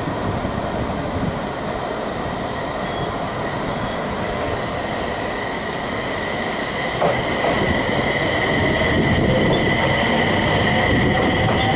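Passenger train running through a station, a steady rumble with a high thin whine that grows louder over the second half, and a lower tone rising near the end.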